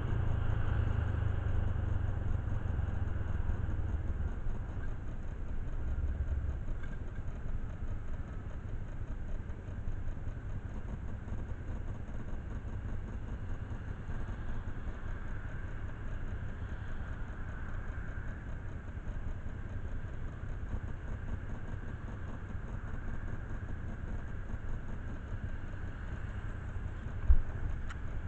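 An engine idling steadily with a low rumble, a little louder in the first few seconds. A single sharp knock sounds about a second before the end.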